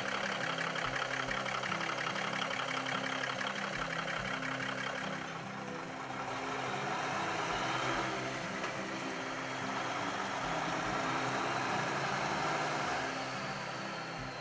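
Cummins NTC400 straight-six turbo diesel in a 1987 Peterbilt 379 truck, running steadily at idle. Its level dips slightly about a third of the way in and rises again later.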